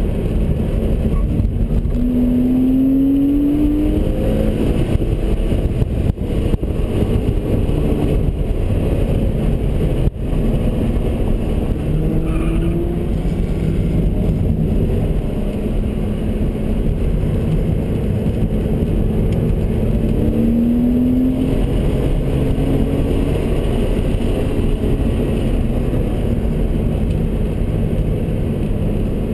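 Car engine heard from inside the cabin while lapping a racetrack, its note rising in pitch under acceleration a few times over steady wind and road noise. The loudness dips briefly twice in the first third.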